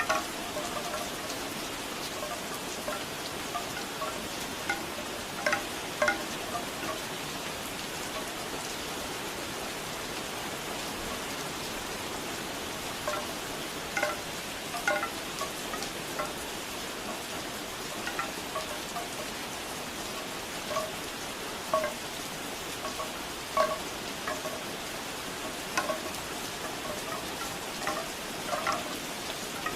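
Bamboo wind chimes clacking irregularly, hollow wooden knocks in clusters, over steady rain.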